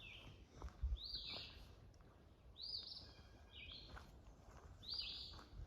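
A songbird singing the same short phrase again and again, about every one and a half to two seconds.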